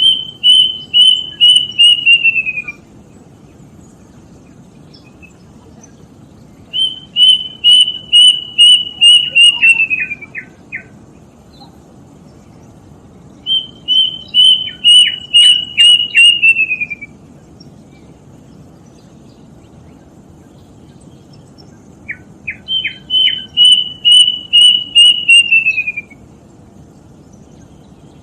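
Kedasih (plaintive cuckoo) singing four phrases, each a run of about eight clear whistled notes on one pitch that slide lower at the end, with a pause of several seconds between phrases. A few short lower notes come just after the second and third phrases and just before the fourth, over a steady low hiss.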